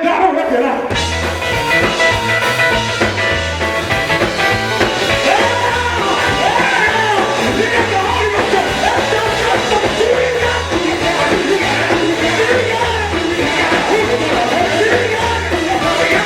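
Live gospel band playing an upbeat number with singing voices over a pulsing bass line.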